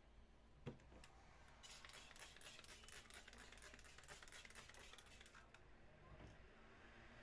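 Faint, quick scratching strokes, about six or seven a second, for around four seconds, after a single click about a second in.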